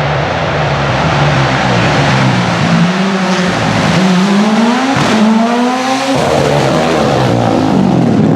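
Rally car engine accelerating hard: the revs climb, drop sharply at an upshift about halfway through, climb again, and drop at the next shift about two-thirds of the way in.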